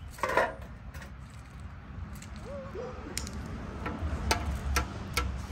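A run of sharp clicks or taps, about half a second apart in the second half, over a low steady rumble, with a brief wavering whine a little before them.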